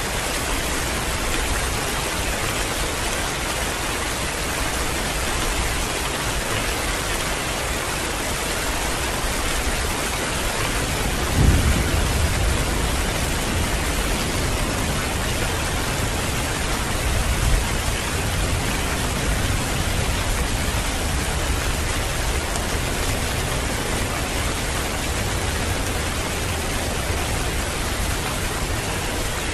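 Steady heavy rain, an even hiss, with a roll of thunder that breaks in sharply about eleven seconds in, rumbles on for several seconds and swells once more a few seconds later.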